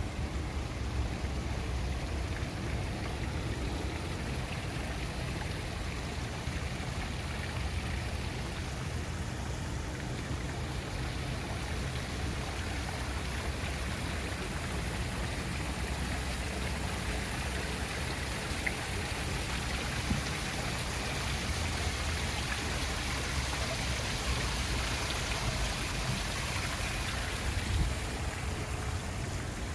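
Steady hiss of running or splashing water, even and unbroken, with a low rumble underneath.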